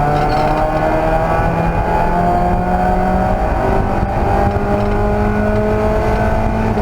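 Race car engine under hard acceleration: its pitch climbs steadily, drops with a gear change about halfway through, then climbs again to another shift near the end.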